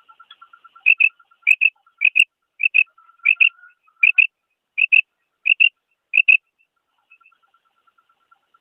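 Female quail calling: a series of about nine short, high double notes, one pair about every half second, which then stop. A faint, fast, steady pulsing runs beneath the calls.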